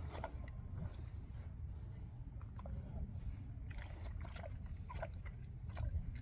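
An animal chewing and smacking on food, with irregular wet clicks and crunches.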